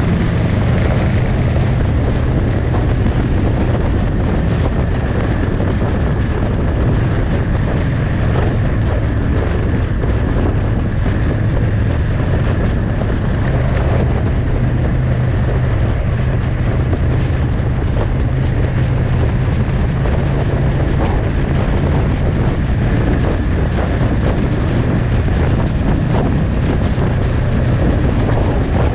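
Motorcycle engine running steadily at cruising speed, a constant low drone under heavy wind rushing over the microphone.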